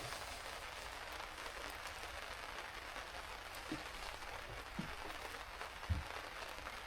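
Steady rain falling, an even hiss, with a few soft low knocks; the loudest comes about six seconds in.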